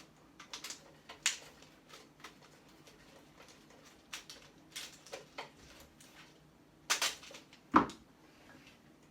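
Irregular clicks and clacks of a hand tool working at circuit breakers while dismantling an electrical panel, with a louder knock near the end.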